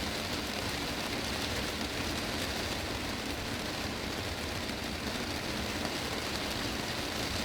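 Heavy rain drumming steadily on a greenhouse's glass roof: a dense, even patter with no let-up.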